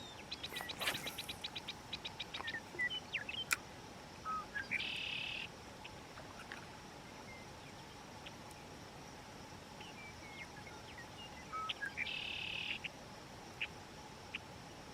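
Outdoor birdsong: a bird twice gives a short note followed by a buzzy trill, about seven seconds apart, with scattered short chirps between. A quick run of clicks sounds about a second in.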